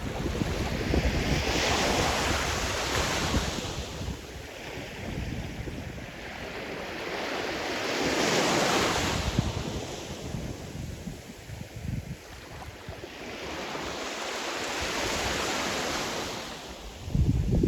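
Sea surf: waves breaking and washing up the shore in three slow swells, about one every six to seven seconds. Wind buffets the microphone with a low rumble at the start and again near the end.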